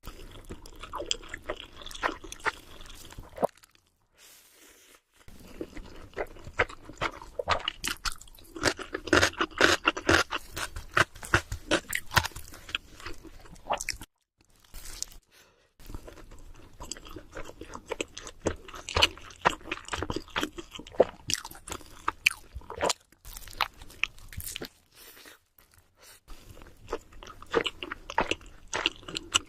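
Close-miked chewing of cheese seafood pizza: crisp crunching of the crust mixed with wet chewing, in dense spells of crackles broken by a few short pauses.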